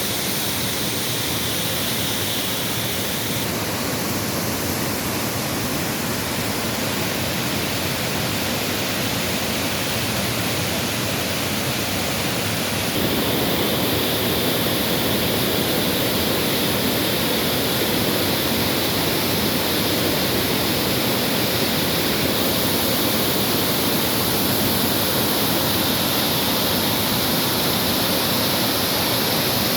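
Çırçır Waterfall's water falling in a steady, even rush, growing somewhat louder a little before halfway through.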